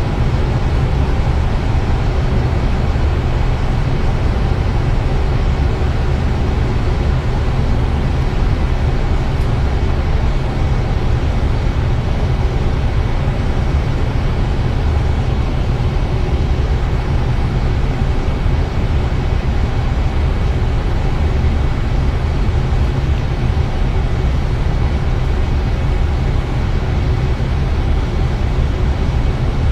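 Steady cockpit noise of an Airbus A320 on approach: a constant low rumble of airflow and engines with faint steady hums over it, unchanging throughout.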